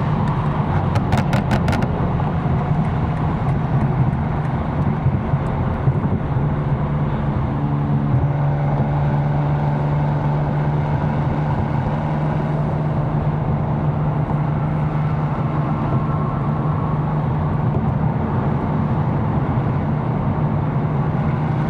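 Tuned BMW M4's engine running steadily at light cruise in traffic, a low even drone that holds one pitch with no hard revving. A short run of sharp clicks comes about a second in.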